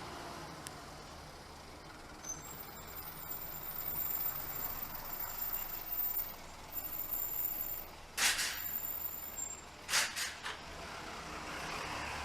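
Short hisses of compressed air from air brakes, one about eight seconds in and two more close together about two seconds later, over a faint high-pitched whine.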